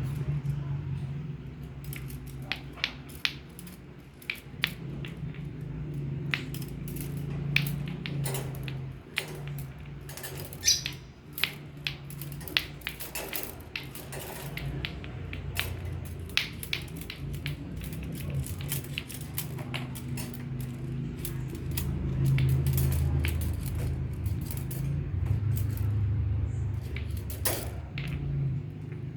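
Irregular sharp clicks and knocks of lato-lato clacker balls being batted about by kittens, over a steady low hum.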